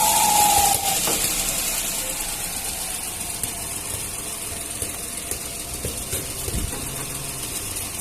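Fiat Uno's 1.0 Firefly three-cylinder engine running, with a steady high-pitched whistle that dips slightly and stops about a second in. After that the engine runs on more quietly. The whistle comes from a perforated diaphragm in the valve cover.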